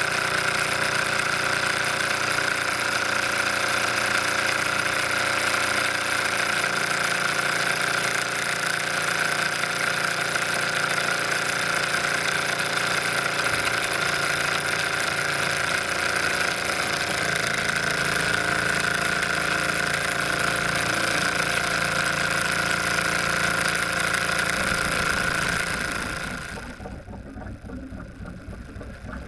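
Bowman M135 model steam engine running steadily at speed, a dense, continuous hiss and whir. About 26 seconds in the loud high hiss cuts off suddenly, leaving only a quieter low sound.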